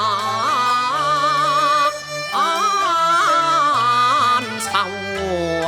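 Cantonese opera aria: a long, melismatic note with wide vibrato over traditional Chinese instrumental accompaniment with a moving bass line, the melody breaking and resuming twice.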